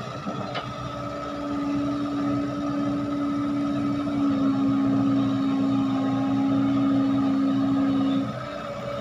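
Heavy diesel machine engine running steadily under load. Its hum grows louder about a second and a half in and drops back sharply near the end, with a brief click near the start.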